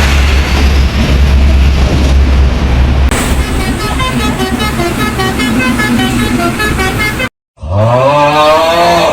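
A steady low vehicle-engine rumble. After about three seconds it gives way to a quick tune of short horn-like notes, then a brief cut to silence and a bending, wavering horn-like tone near the end.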